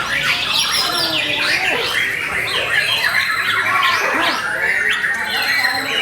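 White-rumped shama (murai batu) singing a fast, unbroken run of harsh crackling 'kretekan' notes mixed with quick whistled sweeps, loud and dense with no pauses.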